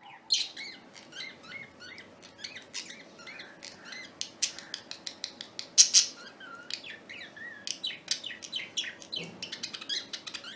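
Small pet parrots chirping and chattering: a quick run of short, high chirps mixed with a few lower warbling notes, with one louder chirp about six seconds in.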